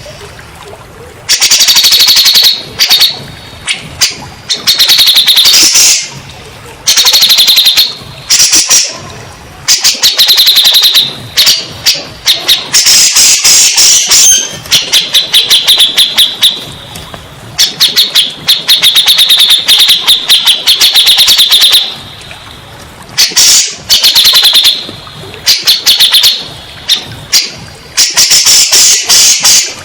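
Cucak jenggot (grey-cheeked bulbul) singing loudly in phrases of rapid, chattering notes, each lasting one to a few seconds with short pauses between. It is a recorded song played to prompt caged birds to sing back.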